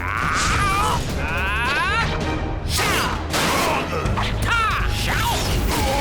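Cartoon action soundtrack: background music over a steady low rumble, with mechanical sound effects and repeated sweeping swoops rising and falling in pitch.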